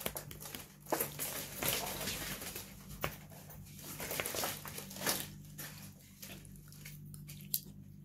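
A person chewing a mouthful of macaroni and cheese close to the microphone, with irregular wet mouth clicks and smacks. A faint steady low hum runs underneath.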